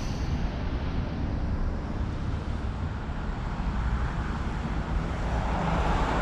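Wind buffeting the microphone outdoors, an uneven low rumble over street noise that swells toward the end.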